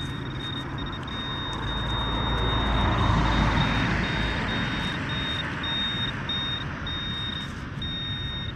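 A vehicle passing on the street, its rumble and tyre noise swelling to a peak about three seconds in and then fading slowly. A thin high-pitched electronic tone keeps breaking off and coming back, in uneven pieces.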